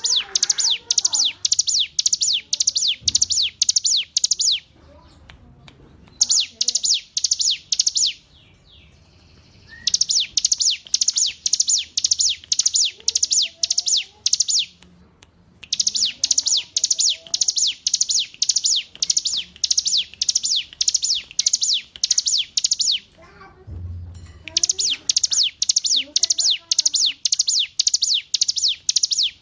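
Ciblek gunung prinia singing: a rapid series of sharp, high chirping notes, about four a second, in long phrases broken by short pauses.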